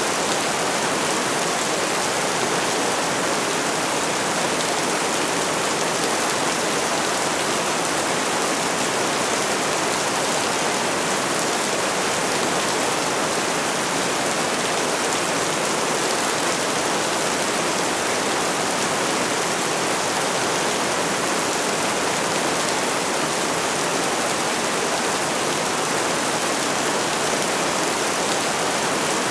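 Steady, even rain, a continuous hiss with no thunder or separate drops standing out.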